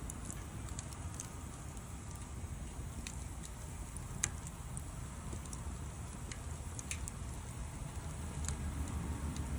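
Wood fire crackling: scattered sharp pops and snaps, the loudest about four seconds in, over a steady low rumble.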